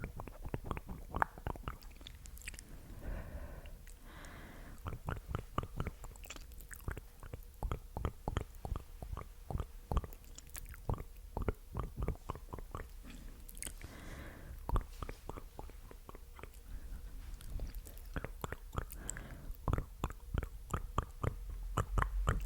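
Close-miked ASMR mouth sounds: a rapid run of wet, sticky clicks and smacks of the tongue and lips, several a second, with a few soft breaths in between.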